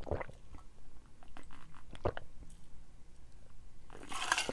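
Chewing a crunchy Nature Valley almond butter granola cup: irregular crunches and mouth clicks, with one sharper crunch about two seconds in.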